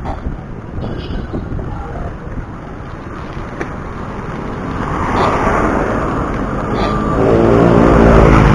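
Road traffic heard from a moving bicycle: a steady wash of traffic noise, then a motor vehicle's engine grows louder from about five seconds in and passes close, loudest near the end.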